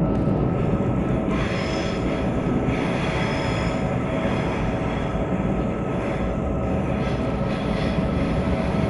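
Electric suburban train running, heard from inside the carriage: a steady rumble of wheels on track with faint whining tones, and a thin high squeal from the wheels for a couple of seconds near the start.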